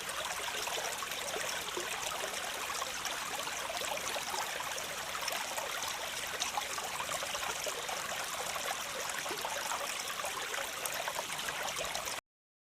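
Waterfall water rushing steadily, an even hiss of falling water that cuts off suddenly near the end.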